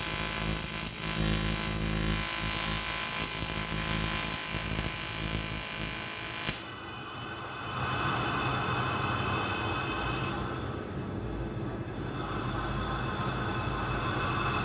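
AC TIG welding arc on an aluminium motorcycle cylinder block, buzzing steadily, then cutting off suddenly about six and a half seconds in. A quieter, steady hiss follows.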